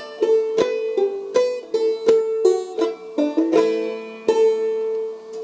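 Clawhammer banjo in double C tuning playing a tune's closing sequence: quick plucked notes, a pull-off and drop-thumb notes, and brushed strums, with a longer note left ringing about four seconds in.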